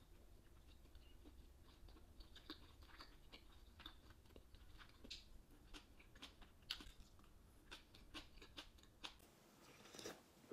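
Quiet chewing of boiled beef tongue slices: irregular soft clicks and small wet smacks of the mouth, with a slightly louder click near the end.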